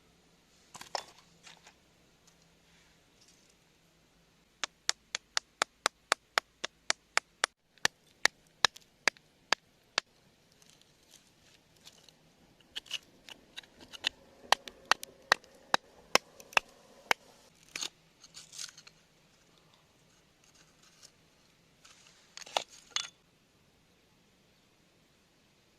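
A metal hand tool tapping on rock in runs of sharp taps, about three a second, with a few short scrapes in between.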